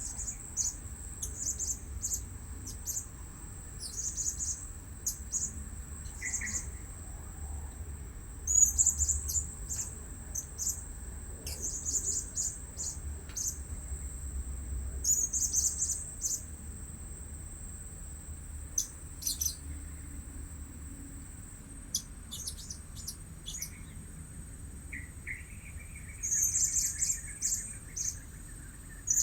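Blue-crowned hanging parrots giving short, shrill, very high-pitched chirps in scattered bursts.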